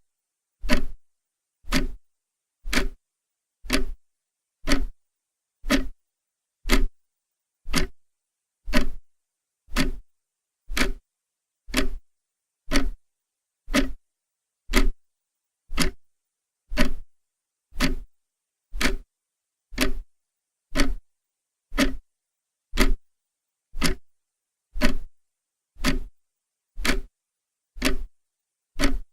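Clock ticking steadily, one sharp tick about every second, with silence between ticks.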